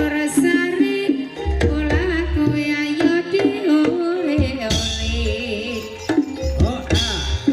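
Live ebeg accompaniment music: deep hand-drum beats and melodic percussion lines under a singer's wavering melody.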